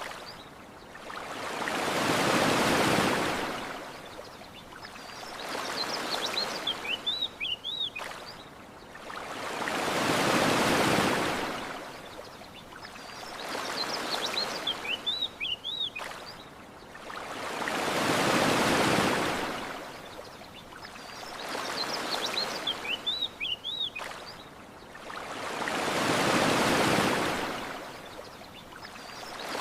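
Ocean waves washing onto a beach in slow, even swells about every eight seconds, with short high bird chirps in the lulls between them. The same pattern repeats four times.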